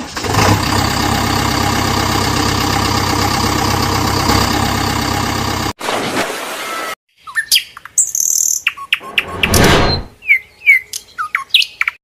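A steady, layered droning sound runs for about six seconds and cuts off suddenly. After it come birds chirping in short calls, scattered clicks and a brief rush of noise near the end.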